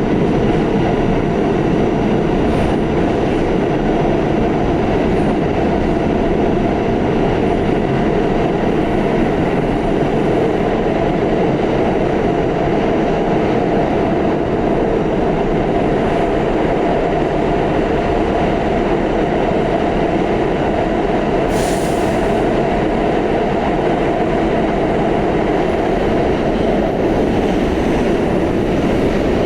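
Pullman-Standard R46 subway car running at speed through a tunnel: a steady, loud rumble of wheels on rail and running gear, with one brief high-pitched hiss or squeal about two-thirds of the way through.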